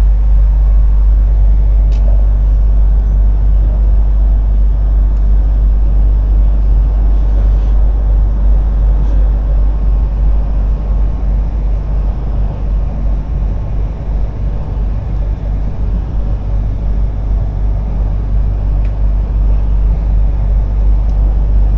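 Bangkok Airport Rail Link train running: a loud, steady, deep rumble of the moving train that eases a little about two-thirds of the way through.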